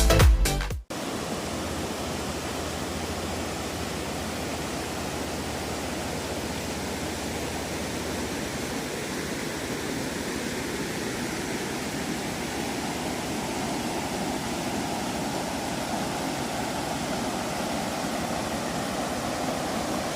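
River running high after heavy rain, a steady rush of water with no break.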